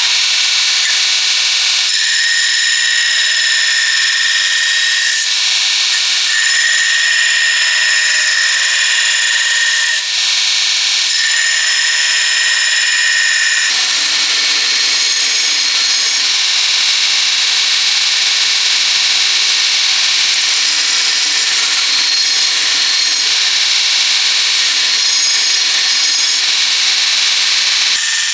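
Electric power tool running under load on the steel of an old saw blade. A steady high whine comes and goes three times in the first half, and from about halfway on the sound turns fuller and lower.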